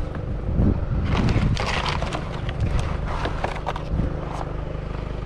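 Vehicle engine idling with a steady low hum, overlaid by intermittent rustling and clattering as scrap items are picked through and handled.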